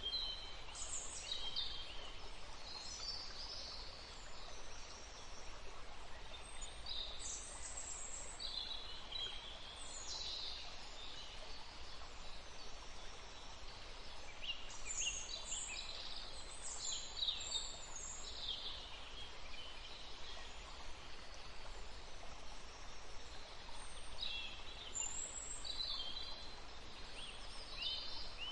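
Songbirds singing in several short bursts of quick, high chirping notes over the steady rush of a forest stream.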